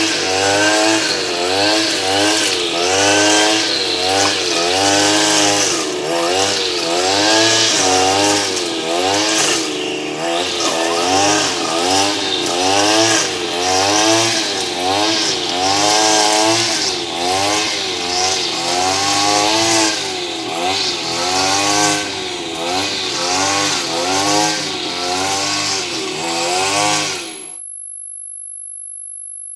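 A loud, motor-like buzz whose pitch wavers up and down over and over, about once a second. Near the end it cuts off abruptly and a very high-pitched steady tone begins.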